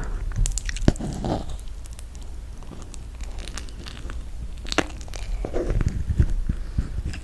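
Close-miked eating sounds of chewing sticky toasted marshmallow: scattered soft clicks and smacks.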